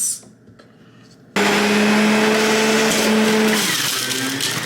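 An electric juicer's motor switches on abruptly about a second in and runs with a steady hum. Its pitch dips near the end.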